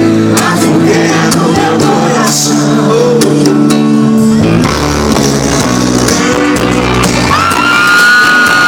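Live sertanejo band playing through the PA, amplified guitar and band under sung vocals, with a long held sung note starting near the end.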